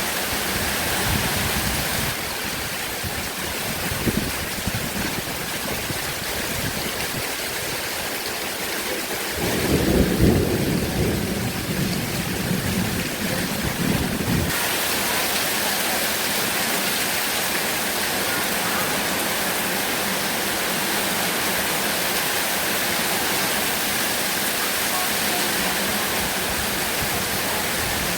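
Heavy rain falling steadily, with a low rumble of thunder about ten seconds in that lasts several seconds.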